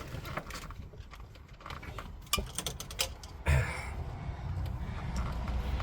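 Hands and tools working in a cramped engine bay: a run of small clicks and light knocks, then a sharp knock about three and a half seconds in followed by rubbing and rustling.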